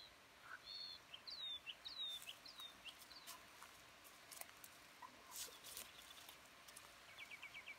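Faint small-bird chirps, several short high chirps in the first three seconds, with a few brief rustles among the tomato foliage and a quick run of ticks near the end.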